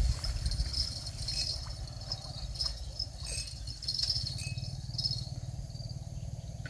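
Fishing tackle rattling and jingling in light, irregular clicks as a hooked tilapia is reeled in, over a steady low rumble.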